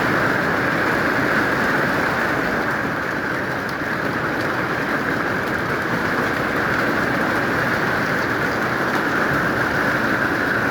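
Heavy rain falling steadily: a dense, even hiss with faint scattered ticks of drops striking a surface.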